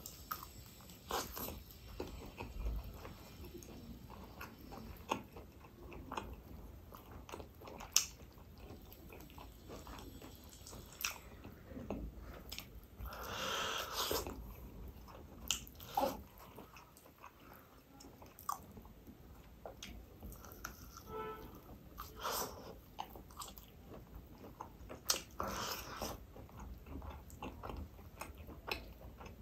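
Close-miked mouth sounds of a person biting and chewing meat off a roast chicken drumstick: irregular wet clicks and smacks, with two longer, rougher stretches about halfway through and near the end.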